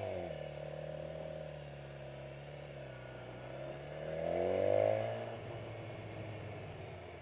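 Kawasaki Versys motorcycle engine under way, its pitch easing in the first second, holding steady, then rising to a peak about four to five seconds in as it accelerates before dropping off again.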